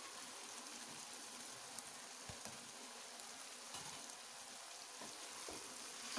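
Boiled masoor dal sizzling quietly in a wok of hot tomato-onion masala as it is tipped in and turned, with a few light taps of the spatula against the pan.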